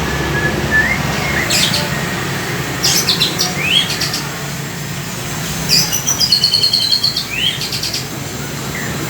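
White-rumped shama of the Nias race singing in separate whistled phrases, including a fast run of repeated high notes about six seconds in, with lovebird calls worked into its song as mimicry. A steady low hum lies underneath.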